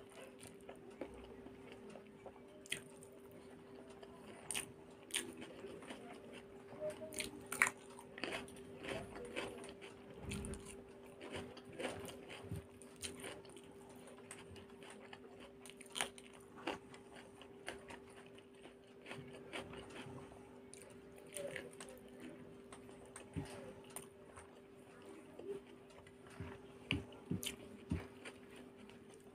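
Close-up mouth sounds of a person eating rice and egg curry by hand: chewing with frequent short wet smacks and clicks, with fingers working the rice on a paper plate now and then. A steady low hum runs underneath.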